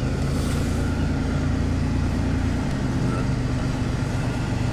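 Truck engine running as the truck drives, heard from inside the cab as a steady low drone. The engine note shifts a little over halfway through.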